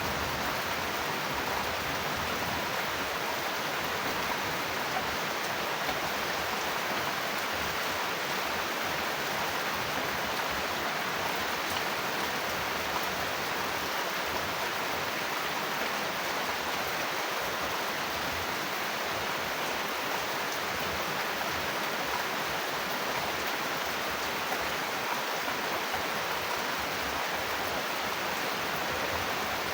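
Steady rain falling with an even hiss and no thunder or other events, a continuous rain recording used as sleep sound.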